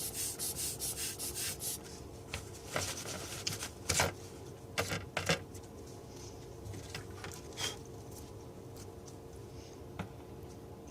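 Quick rhythmic rubbing strokes, about five a second, stopping about two seconds in, then a few scattered clicks and short scrapes over a faint steady hum.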